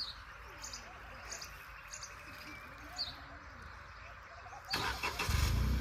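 Birds chirping in short, repeated high calls. Near the end a Maruti Wagon R's engine is started: a brief burst of cranking, then it catches and settles into a steady idle.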